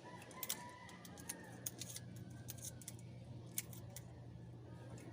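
Light metallic clicks and taps of hand tools working the valve rocker adjusters on an Isuzu 4BA1 diesel engine during valve clearance adjustment, over a low steady hum.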